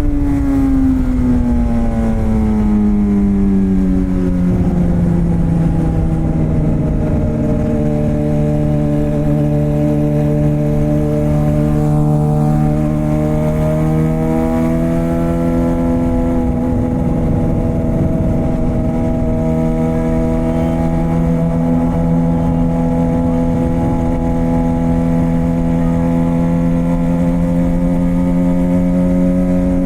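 Suzuki GSX-R600 K7's inline-four running through a straight-piped M4 exhaust with no catalytic converter. The revs fall over the first few seconds, then hold at a steady drone, rising slightly about halfway through.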